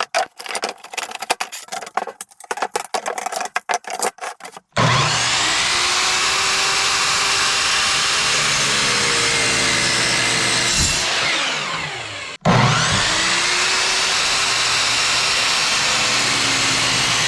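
A run of quick, irregular knocks and taps on wood. Then a miter saw's motor starts up and runs steadily, spins down with a falling whine, and starts again to run on at full speed.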